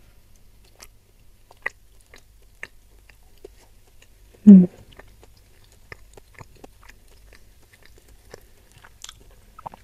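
Close-miked chewing of tender spicy beef, with many small wet mouth clicks and ticks. A short closed-mouth hum comes about four and a half seconds in.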